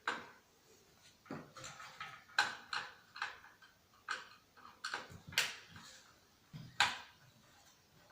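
Irregular clicks and knocks of hard plastic and metal parts being handled and set down during the teardown of a CRT TV/DVD combo, about a dozen sharp taps spread unevenly.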